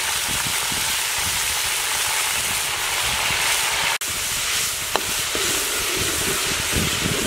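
Chopped garlic and chili frying in hot oil in a steel wok: a steady sizzling hiss. In the second half a metal spatula stirs and scrapes against the wok.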